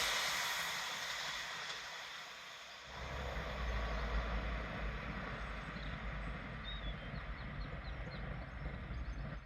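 The rush of a passing train fading away over the first few seconds. Then a low rumble sets in about three seconds in, with faint bird chirps.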